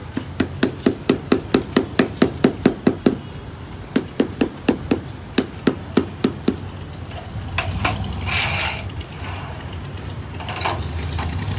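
Rapid hammer blows, about five a second, in two runs of quick strikes, followed by a scraping noise near the end.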